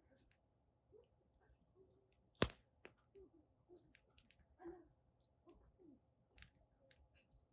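Wood fire crackling softly: scattered small pops and ticks, with one sharp loud crack about two and a half seconds in.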